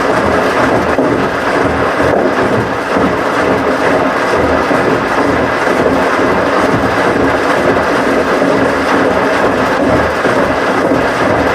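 Washing machine running: a loud, steady rumble with a constant low hum.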